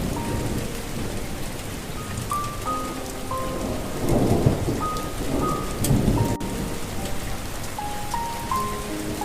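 Steady rain with rolling thunder that swells about four and six seconds in, under a soft melody of single held notes.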